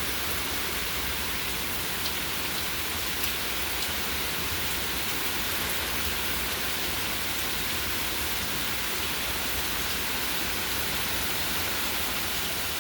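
Heavy hurricane rain falling steadily, with the rush of wind. Two faint ticks come about two and three seconds in.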